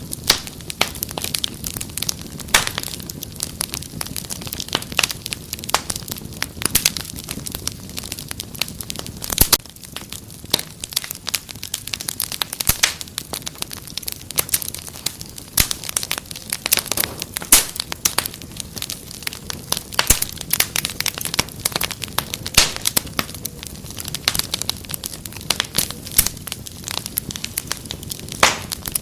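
Fireplace fire crackling: dense, irregular crackles with a sharper, louder pop every few seconds over a low steady rumble.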